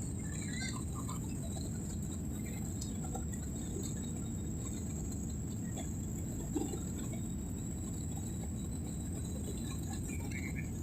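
Airliner cabin noise in flight: a steady low rumble of engines and airflow, with a few faint brief higher sounds scattered through it and a soft knock about six and a half seconds in.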